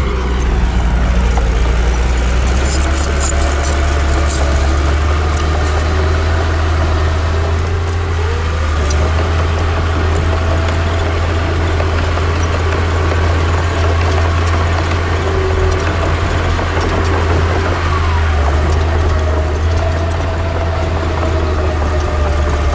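Heavy diesel earthmoving machinery, a bulldozer working with dump trucks, running steadily with a deep engine drone. The engine pitch rises about eight seconds in, with scattered sharp clanks early on.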